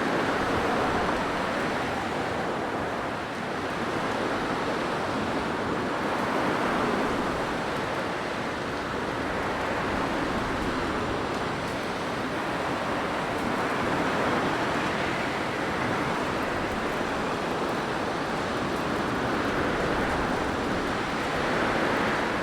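Blizzard wind blowing steadily: a dense, even rush with gentle gusts that swell and ease every few seconds.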